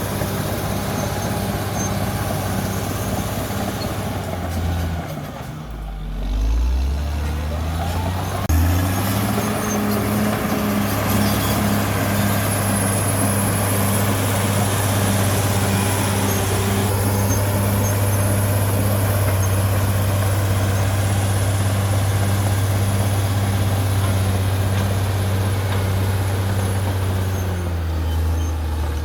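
CAT D6R XL bulldozer's diesel engine running under load. About five seconds in its speed drops, rises again by about eight seconds, then holds steady before easing off near the end.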